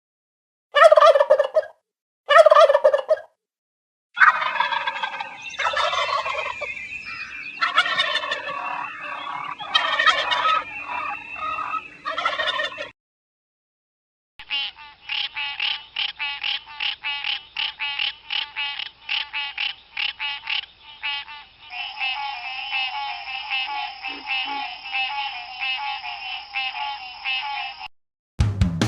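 Animal calls in several separate recordings cut together. Two short calls come first, then a dense run of overlapping calls over a steady low hum. After a short gap comes a long train of rapid, evenly spaced pulses, about three or four a second.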